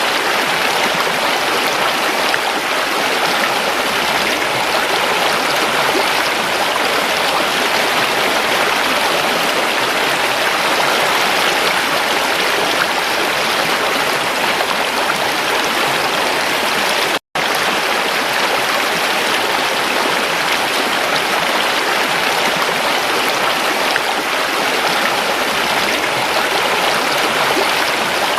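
Creek water rushing over stones in a steady, even stream. It cuts out for an instant about two-thirds of the way through.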